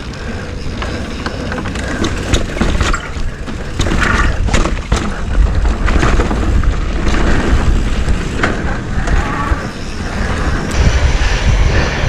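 Mountain bike rolling down a rocky trail: wind buffeting the action-camera microphone as a steady low rumble, with tyres crunching over rocks and frequent clacks and knocks from the bike's chain and frame.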